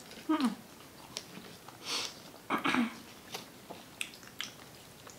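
Close-up eating sounds of people chewing and biting pizza: scattered wet mouth clicks and smacks and a short crunchy burst about two seconds in. Two brief hum-like voice sounds, falling in pitch, come near the start and just before the middle.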